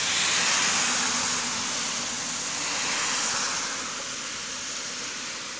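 Heavy rain pouring down, a dense rushing hiss that swells near the start and again about halfway through, then eases a little.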